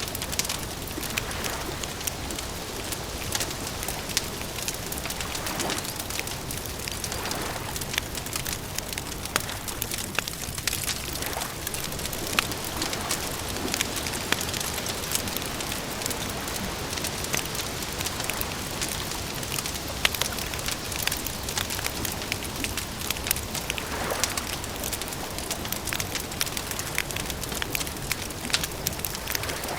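Wood campfire crackling and popping over a steady soft hiss, with irregular sharp snaps throughout.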